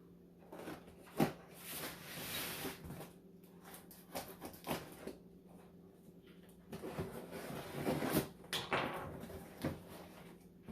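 Cardboard shipping box being cut open with a pocket knife and its flaps and packing handled: irregular knocks and clicks with stretches of scraping and rustling.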